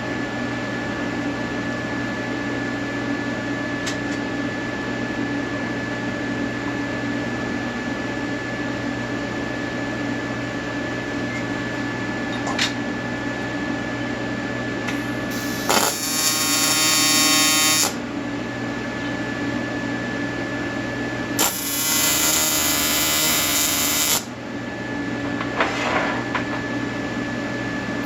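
Steady electrical hum from a welding machine with a few faint clicks. Past the middle come two loud buzzing welding-arc bursts, each two to three seconds long.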